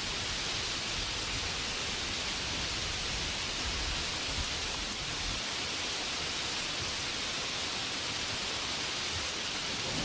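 Steady rainfall, an even hiss of rain that holds the same level throughout.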